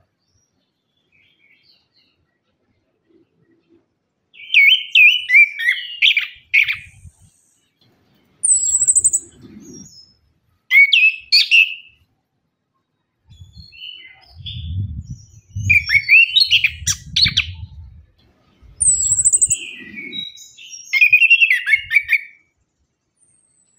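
Chestnut-capped thrush (anis kembang) singing in separate phrases of fast, sliding whistled notes with a few very high notes, with short pauses between phrases. Under some phrases in the middle there is a low rumble.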